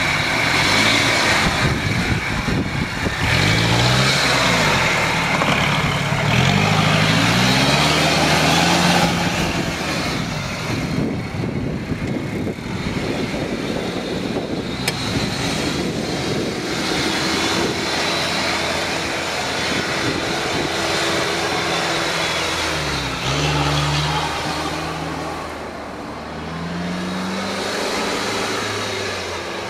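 Jeep Cherokee's engine working under load on a steep muddy off-road climb, its revs rising and falling several times with steadier running in between.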